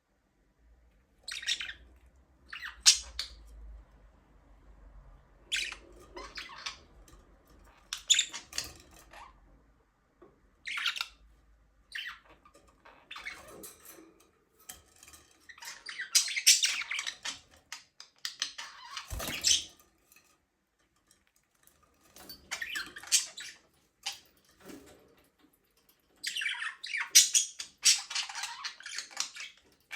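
Budgerigars chirping and squawking in short, high-pitched bursts that come every second or two, with a single low thump about two-thirds of the way through.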